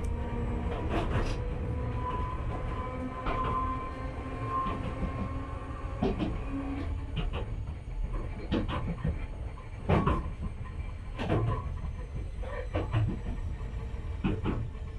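Enoshima Electric Railway (Enoden) train running, heard from on board: a steady low rumble broken by irregular clunks of the wheels over rail joints, about nine in all.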